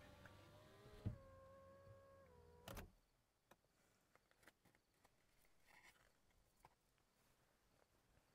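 A faint steady whine of several tones with a knock about a second in; the pitch steps down and the whine ends with a knock about three seconds in. Near silence with faint small clicks follows.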